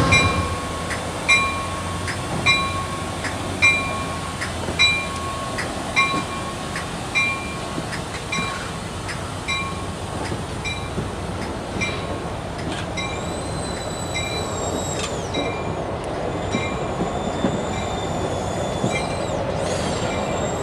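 Railcars rolling past on the rails just after the locomotive, with a regular ringing metallic clank a little over once a second. From about two-thirds of the way in, high-pitched wheel flange squeal comes and goes, more often near the end.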